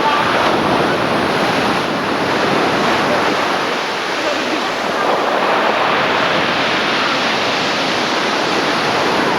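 Sea waves washing in a steady, loud wash of surf.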